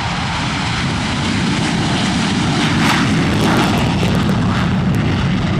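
Loud, steady aircraft engine noise, cutting in abruptly from silence.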